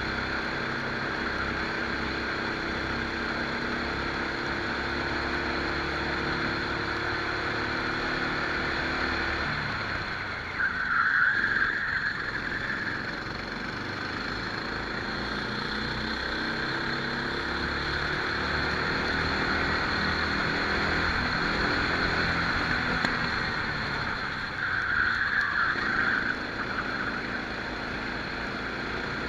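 Rental kart engine heard onboard during a race, its pitch climbing and falling as the throttle is worked lap-wise. Twice the engine note drops away and a louder, rough high-pitched noise rises over it for a couple of seconds.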